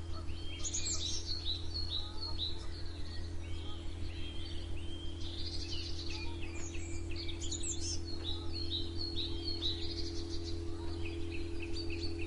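Several songbirds chirping and singing at once, with quick series of short repeated notes and trills, over a steady low hum.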